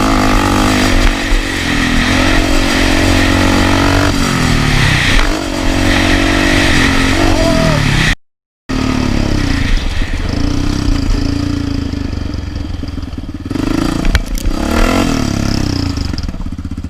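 Off-road vehicle engine running and revving, its pitch rising and falling repeatedly. The sound cuts out completely for about half a second some eight seconds in, then the engine carries on.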